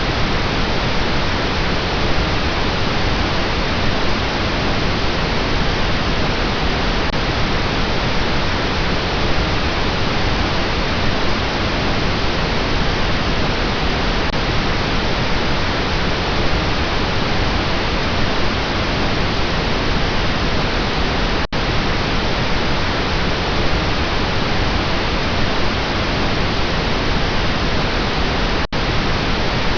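Steady pink noise, an even, unbroken hiss that starts abruptly out of silence. It cuts out for an instant twice, about two-thirds of the way through and again near the end.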